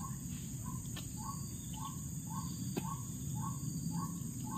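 A bird calling a short, slightly falling note over and over, about three times a second, against a steady high insect drone.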